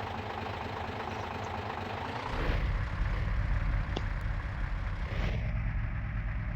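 Truck engine running, growing louder and heavier about two seconds in as it is worked harder, typical of a truck trying to pull itself free of soft ground. A single short click about four seconds in.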